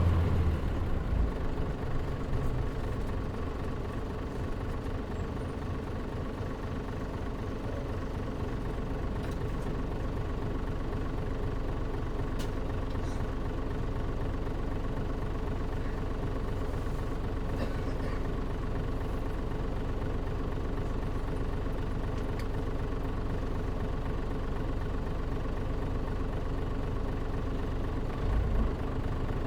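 Mitsubishi Fuso Aero Star city bus (KL-MP37JM) diesel engine running steadily, heard from inside the passenger cabin with the air conditioning off. The engine note drops over the first few seconds, holds steady, and a deeper rumble builds near the end.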